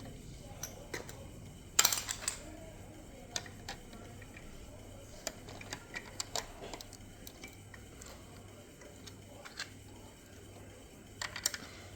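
Small hard plastic pieces being handled: scattered sharp clicks and light knocks, loudest in a short cluster about two seconds in and again near the end.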